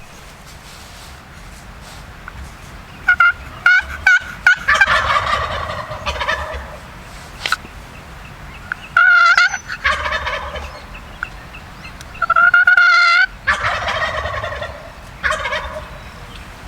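Wild turkey gobbler gobbling close by, three gobbles about four seconds apart. Each one opens with sharp, clear notes and breaks into a rapid rattle.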